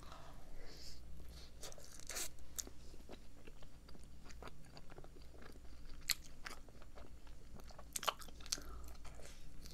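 Close-up mouth sounds of biting into and chewing a Krispy Kreme original glazed doughnut: a bite at the start, then quiet chewing with scattered small clicks.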